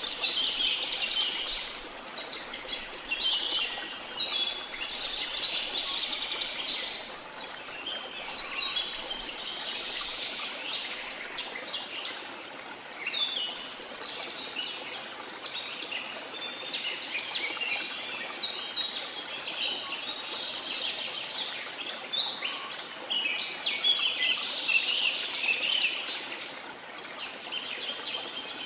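A dense chorus of many birds chirping and calling, high-pitched and overlapping throughout, over a steady hiss of rushing water from a waterfall.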